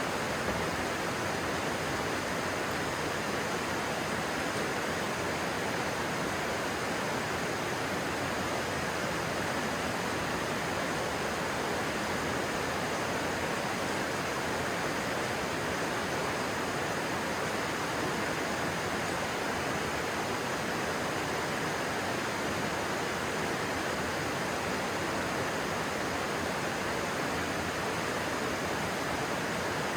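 Stream water rushing and splashing in a steady, unbroken wash.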